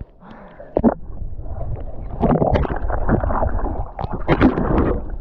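Lake water splashing and sloshing from a swimmer's strokes, close to the microphone, with irregular sharp splashes from about a second in.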